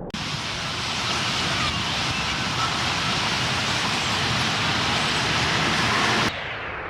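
Dense, steady din of a huge purple martin flock chattering at its roost, with no single call standing out. It starts abruptly and cuts off suddenly about six seconds in.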